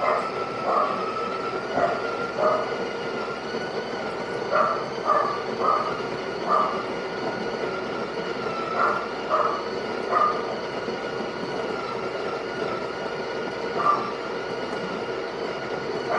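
Built-in burr grinder of a Breville Barista Touch Impress espresso machine running steadily while grinding coffee beans for a shot, a droning motor with short, irregular higher bursts over it.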